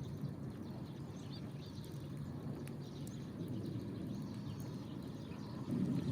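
Small wood fire burning in a Kamado Smart Grill B6, giving a few faint crackles over a steady low rumble, with birds chirping faintly now and then.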